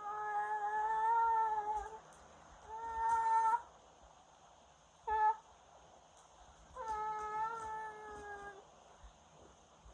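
Train horn sounding long, long, short, long, the standard signal for a grade crossing. Each blast is a steady chord of several notes.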